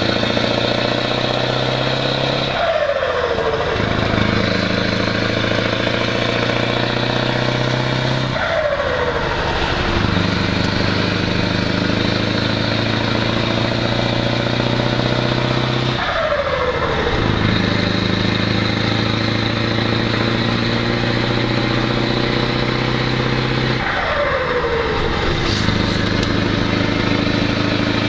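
Scania V8 truck engine running steadily. Four times, about every seven seconds, its pitch falls away briefly before it picks up and runs on steadily again.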